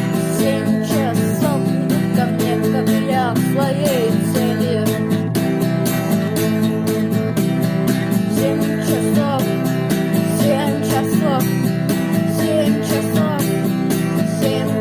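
Instrumental band music: strummed guitar under a lead guitar line with sliding, bending notes, over bass and a steady drum-machine beat.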